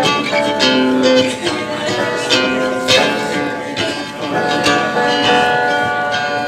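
Live acoustic music without singing: an acoustic guitar picking a run of separate notes in an instrumental passage.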